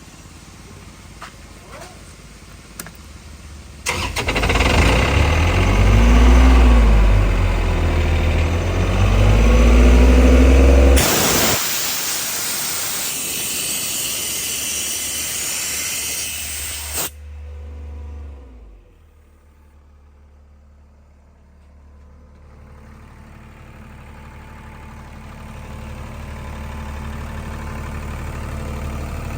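Airman PDS130SC diesel engine compressor starting about four seconds in and running loud, its pitch rising and falling. Then a loud steady hiss takes over for about six seconds. After that the sound falls away, and a low hum slowly builds again near the end.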